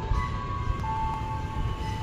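Electric commuter train running with a steady low rumble, while a simple tune of held notes, stepping up and down in pitch, plays over it.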